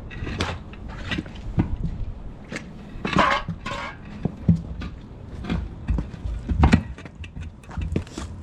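Steel tire bars knocking and scraping against a semi truck's steel rim as a lubed tire is levered onto it, in irregular clanks with a longer scrape about three seconds in.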